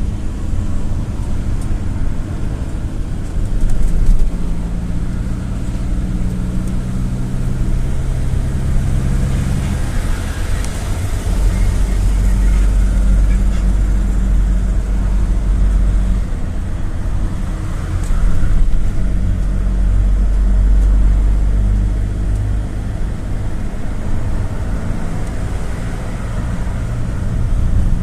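GAZ Gazelle City minibus under way, heard from inside as a ride: a steady low engine hum with road and tyre noise, the engine note shifting a few times as it changes speed and gear, and swelling louder twice.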